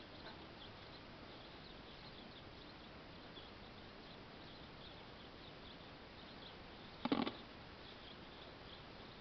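Small birds chirping faintly and repeatedly over a steady outdoor hiss, with one short, loud burst about seven seconds in.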